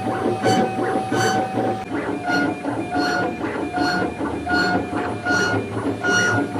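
CNC carving machine at work: its motors give a steady whine that repeats in regular passes, about one every three-quarters of a second, and the pattern shifts slightly about two seconds in.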